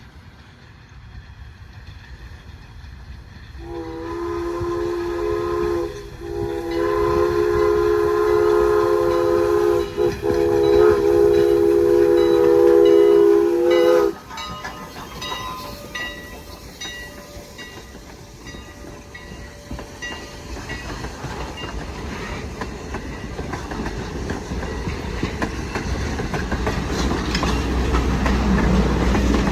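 A train's air horn sounds a loud multi-note chord for about ten seconds, with a short break partway, then the train runs past with wheels clacking over the rail joints, growing louder near the end.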